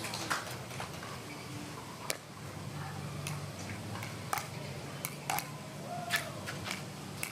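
Quiet pickleball court ambience between points: a low steady hum with about five scattered, sharp single taps.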